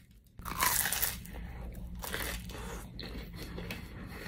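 A close-miked crunch as the crisp fried crust of a Jollibee ube pie is bitten, loudest about half a second in, followed by repeated crunchy chewing.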